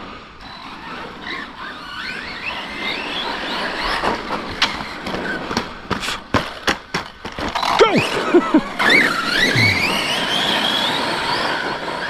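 Electric RC monster trucks' brushless motors whining, rising and falling in pitch with the throttle. A run of sharp knocks and clatters comes in the middle, then a steady rising whine near the end.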